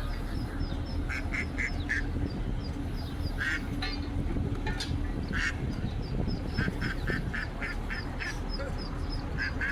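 Ducklings peeping steadily in short high calls, about three to four a second, while a duck quacks in quick runs of several calls at a time, about a second in, around five and a half seconds in, and near the end.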